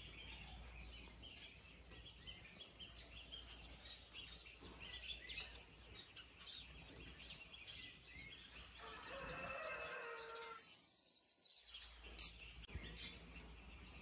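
Small birds chirping faintly and repeatedly, with one loud, sharp, high chirp about twelve seconds in.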